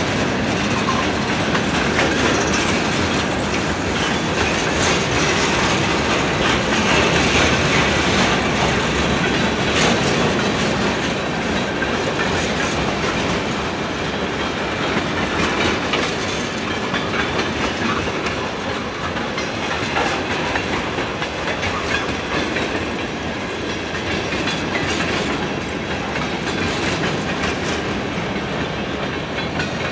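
Freight cars of a long mixed freight train (boxcars, tank cars, open-top cars) rolling past on steel wheels: a steady rumble and clatter with scattered clicks from the wheels on the rails.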